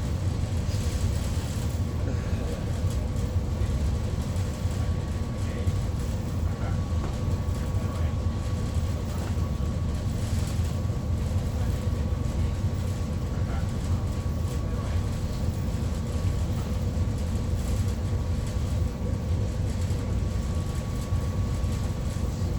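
Steady low rumble of a passenger ferry's engines heard on board, with a faint constant hum over it.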